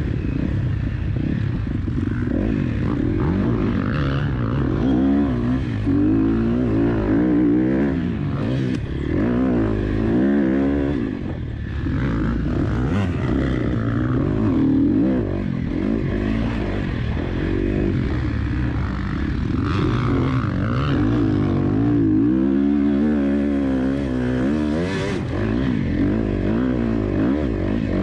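KTM 250 SX-F four-stroke single-cylinder motocross engine revving up and down again and again as the bike is ridden hard, its pitch climbing and dropping every second or two through throttle changes and gear shifts.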